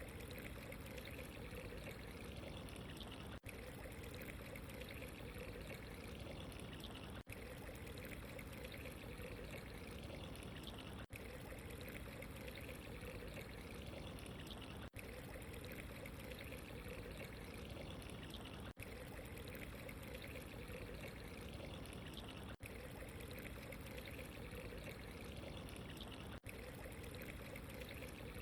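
Steady trickling, pouring water, repeating as a short loop with a brief gap about every four seconds.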